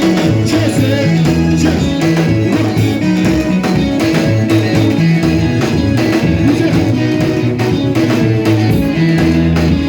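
Church worship band music with guitar, a moving bass line and steady drums.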